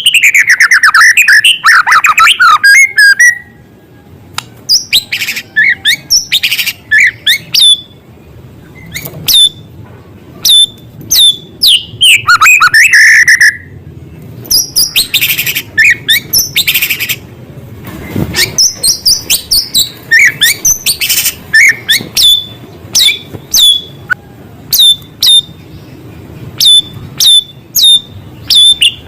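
White-rumped shama (murai batu) singing loudly in a varied song of whistled phrases, fast descending trills and runs of short sharp notes, with small-bird calls worked in as mimicry.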